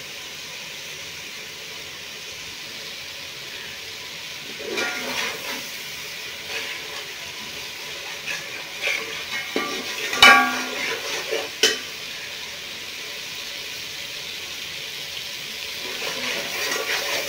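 Onion, tomato and spice masala sizzling steadily in hot oil in a metal pot as it is fried down. A metal slotted spoon stirs it in short bouts, scraping and knocking against the pot, with the sharpest clank about ten seconds in.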